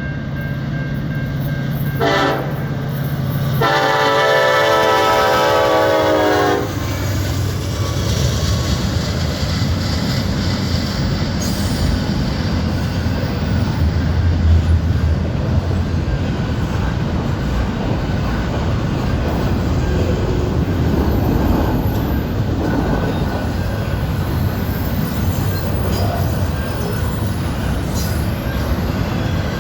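A diesel locomotive air horn on the lead EMD SD70M-2 gives a short blast about two seconds in, then a long blast of about three seconds, sounding for a grade crossing. The horn stops, and the locomotive diesels and the stack train's railcars rumble past with wheel clatter on the rails. The engine sound is loudest at about the middle.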